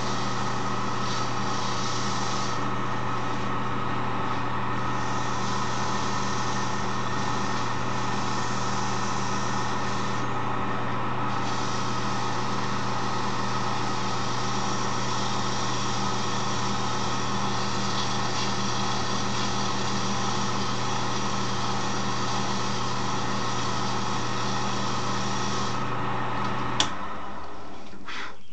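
Wood lathe motor running steadily while a sponge sanding pad hisses against the spinning wooden file handle; the hiss drops out briefly twice as the pad is lifted off. Near the end a click, and the lathe's hum dies away as it is switched off.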